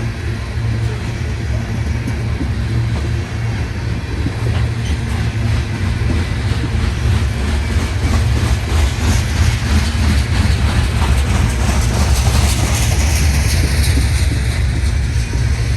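CSX coal train rolling past: a steady low rumble of the railcars with wheels clicking over the rail joints, getting a little louder about halfway through.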